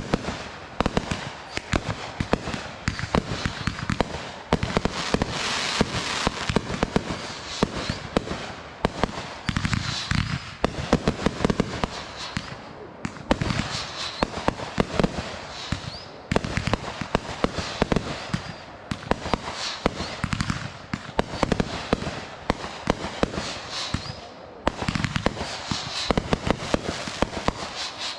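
Consumer fireworks going off: a dense run of sharp crackling pops, many in quick succession, broken by a few brief lulls.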